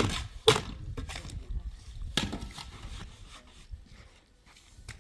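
A series of sharp knocks or blows, the loudest at the start, about half a second in and just after two seconds, growing quieter toward the end.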